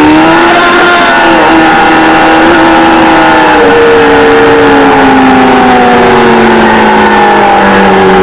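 Kawasaki ZXR400's inline-four engine running at high revs, heard from the bike itself. Its pitch rises briefly at the start, holds for a few seconds, then falls steadily through the second half as the revs drop.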